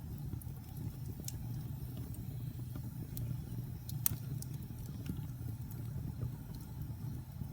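Wood fire burning in a fireplace: a steady low rush from the flames, with sparse sharp crackles and pops of the logs, the loudest pop about four seconds in.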